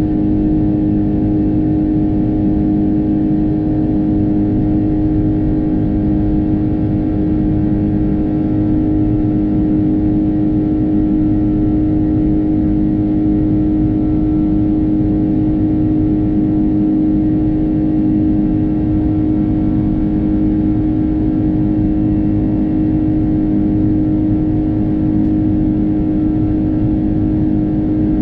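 Steady cabin drone of an Airbus A330-300 airliner with Rolls-Royce Trent 700 turbofans: engine and airflow noise heard from inside the cabin, a constant deep rumble with a strong steady hum that does not change.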